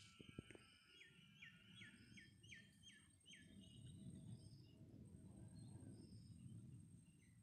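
Faint outdoor ambience: a bird calls a quick series of about eight short, downward-sliding notes in the first few seconds, with other faint chirps scattered through. A low rumble runs underneath, and a couple of soft thumps come near the start.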